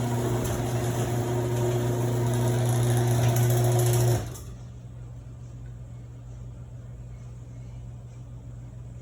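Garage door opener's motor running with a steady hum as the door opens, then cutting off sharply about four seconds in as the door stops. A faint low hum remains afterwards.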